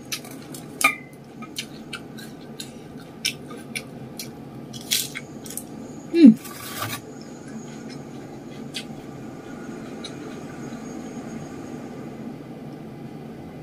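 Close-miked eating by hand: scattered sharp clicks and wet mouth smacks of chewing rice and food, with one louder short sound falling in pitch about six seconds in. The second half is mostly a steady low hum with only a few faint clicks.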